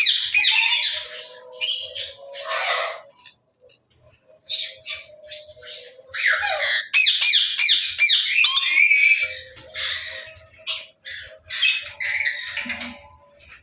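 Parrots squawking: bursts of fast, repeated harsh calls with short pauses between them, the longest run a little past the middle.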